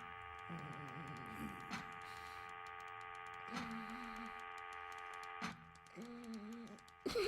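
Machine ambience: a steady electrical hum made of several held tones, with a sharp click about every two seconds and two short wavering low electronic tones, one about three and a half seconds in and one near the end.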